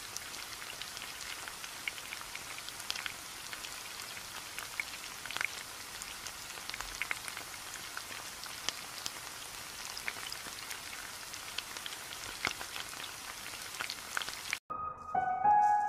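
Oil sizzling and crackling around beef tikka boti skewers shallow-frying in a pan: a steady hiss with many small pops. The sizzle cuts off suddenly about a second before the end and music starts.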